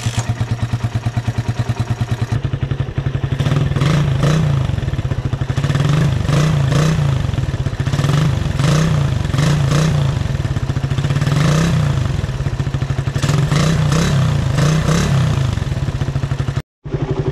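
Stock 2011 Suzuki Raider 150 New Breed, a carburetted single-cylinder four-stroke, running through its stock exhaust, with the throttle blipped every couple of seconds so the revs rise and fall. The sound drops out for a moment near the end.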